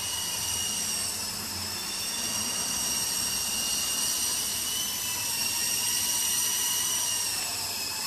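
Electric motors of a Double Horse 9053 RC helicopter running steadily, picked up by a camera carried on the helicopter: a high-pitched whine with several tones that waver gently in pitch over a hiss.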